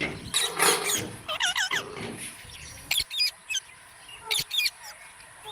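Several pet parrots calling in quick bursts of high chirps, each burst a rapid run of three to five notes, repeated about four times.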